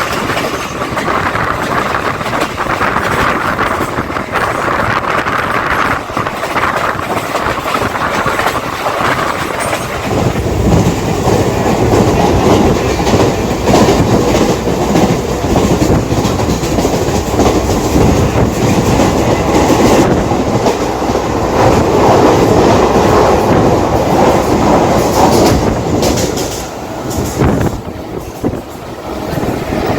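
Mumbai suburban local electric train running along the track, with wheels clattering over the rails. About ten seconds in the rumble grows louder and deeper, then eases off briefly near the end.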